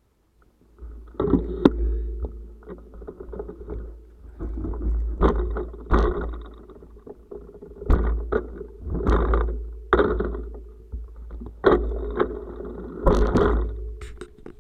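Bicycle rattling and jolting over a rough forest road, with irregular knocks and clatter every second or so over a steady low wind rumble on the action camera's microphone. The sound starts about a second in after near silence.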